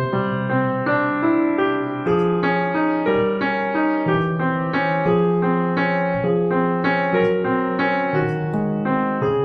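Background piano music: a steady run of sustained notes and chords, changing about twice a second.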